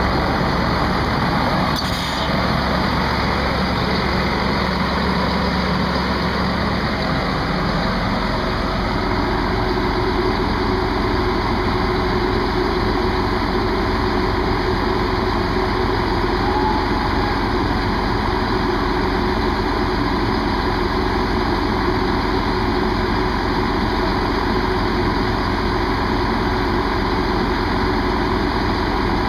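Diesel train engine running steadily at a standstill, a low idling drone; its note shifts about seven seconds in.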